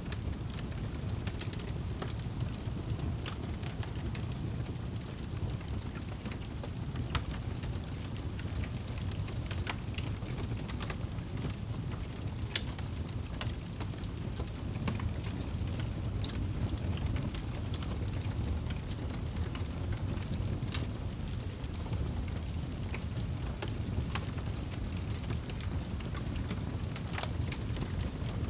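Wood fire burning in a fireplace: a steady low rumble with irregular, scattered crackles and pops.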